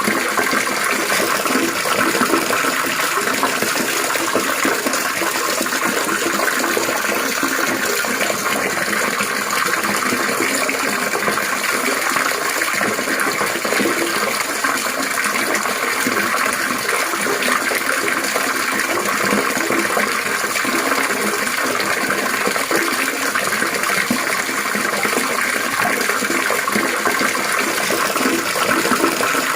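Steady trickling, splashing water: an even, continuous babble with no breaks or changes.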